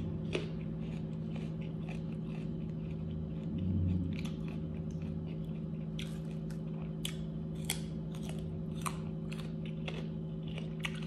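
A person biting and chewing chicken wings close to the microphone, with scattered crunchy bites throughout. A steady low hum runs underneath.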